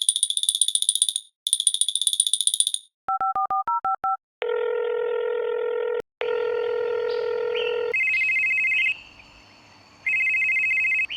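Telephone sound effects in sequence: two bursts of an electronic trilling ring, then a quick run of keypad dialing beeps about three seconds in, then two long steady tones, and two pulsing higher-pitched tones near the end.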